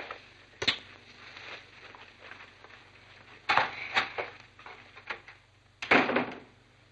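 A few sharp knocks and clatters, like handling or footsteps on a hard surface: one about a second in, a cluster around three and a half seconds, and the loudest near the end.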